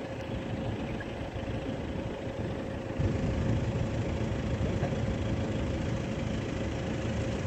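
Steady low rumble of a long train running along the far lakeshore, with a steady hum throughout; it gets louder about three seconds in.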